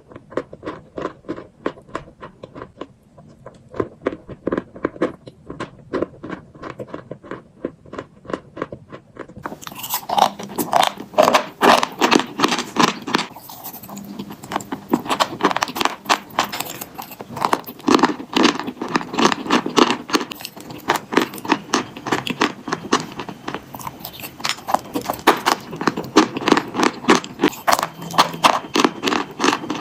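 Close-up crunching and chewing of chalk and chalk paste: a fast, continuous run of crisp crunches, several a second. About ten seconds in, the crunches become fuller and louder.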